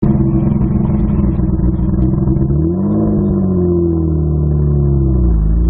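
Nissan R32 Skyline GT-R's twin-turbo straight-six (RB26DETT), heard from right at the exhaust, running steadily, then its revs rise about three seconds in and slowly sag before dropping back near the end.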